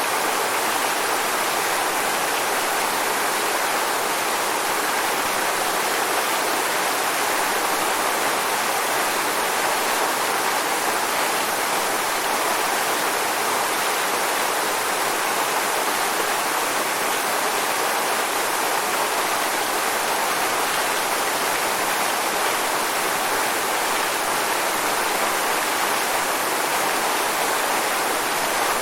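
Waterfall, water falling and rushing in a steady, unbroken hiss with little bass.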